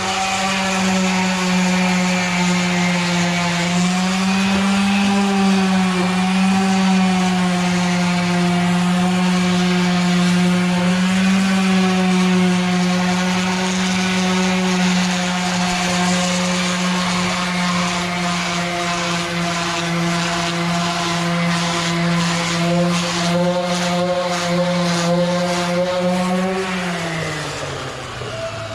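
Electric polishing machine running at a steady high speed on the truck's aluminum, its pitch wavering slightly under load. Near the end it is switched off and winds down, the pitch falling quickly.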